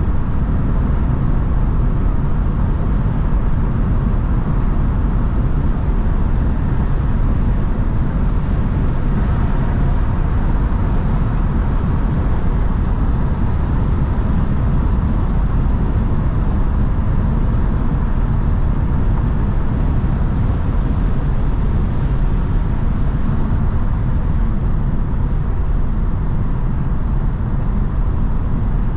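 Mercedes-AMG C43 driving at a steady cruise: a constant low drone of engine and road noise with no revving or gear changes.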